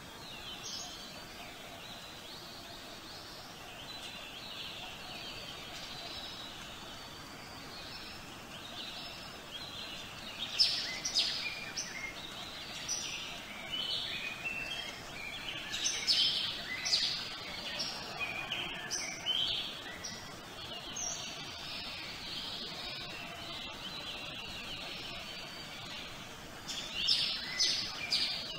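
Birds chirping and singing over a steady background hiss, the calls coming thickest from about a third of the way in and again near the end.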